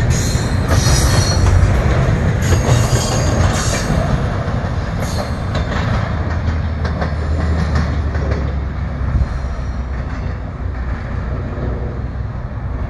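Double-stack intermodal well cars of a freight train rolling past, wheels clacking over rail joints with high wheel squeal through the first few seconds, then a steady rumble that eases as the end of the train moves away.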